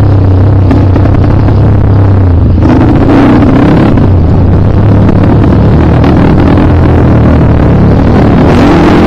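Dirt bike engine running under load, its pitch shifting with the throttle about a third of the way in and again near the end.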